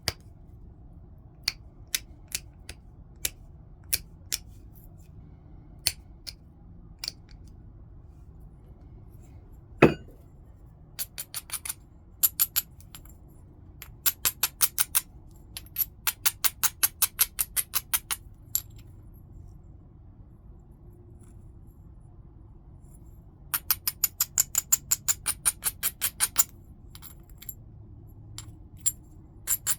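Stone being flintknapped: sharp single clicks of small flakes coming off the edge, one heavier knock about ten seconds in, then several runs of rapid scraping ticks, about ten a second, as the edge is worked.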